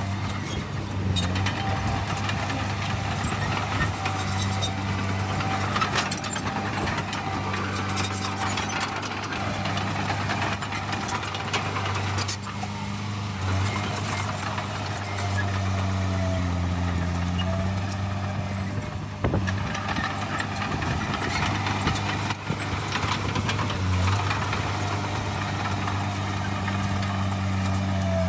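Heavy diesel earthmoving machinery running steadily, its engine pitch shifting a little now and then, with a couple of sharp knocks in the second half.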